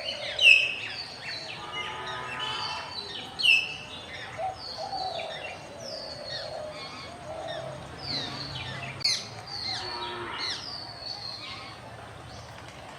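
Common hill mynahs calling: loud, sharp whistles that fall in pitch, repeated over and over, with harsh rasping calls mixed in about two seconds in and again around ten seconds.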